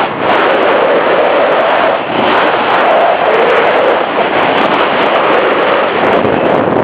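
Loud wind buffeting the camera's microphone on a moving motorcycle, a dense rushing noise mixed with road and engine noise.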